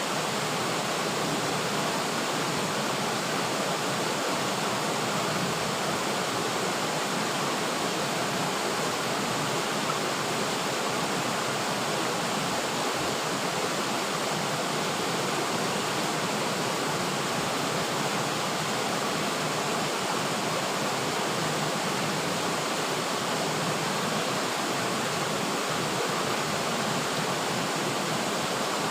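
River water flowing and rushing steadily, an even splashing hiss without pauses or breaks.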